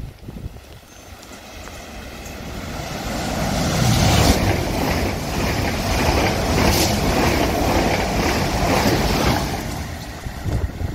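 South Western Railway electric multiple unit passing through the station at speed: a rushing noise that builds over about three seconds, stays loud for about five, then fades.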